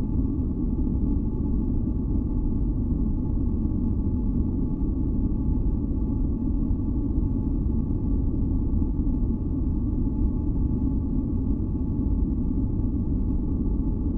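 Steady deep noise for sleep masking, a low rumbling hiss with most of its weight in the bass, with a few faint held tones above it. It does not change.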